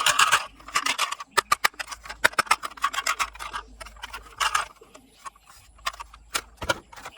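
Plastic toy vehicles being handled: an irregular run of sharp clicks and clatters with a few short rasping bursts, thickest in the first second and around two to three seconds in.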